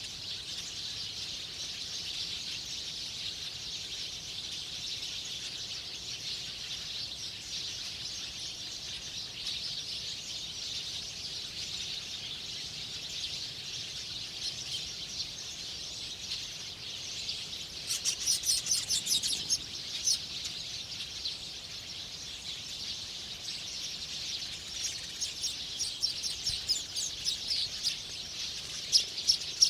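Small birds chirping in fast runs of several notes a second, one run about two-thirds of the way through and more toward the end, over a steady high-pitched hiss.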